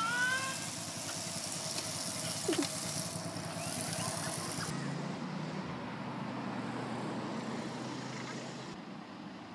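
A car's engine running close by, a steady hum with a hiss over it that fades a little near the end.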